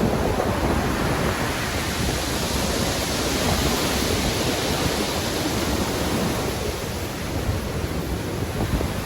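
Rough, storm-driven sea surf breaking continuously, with wind: a steady, dense wash of noise with a heavy low end and no single distinct crash.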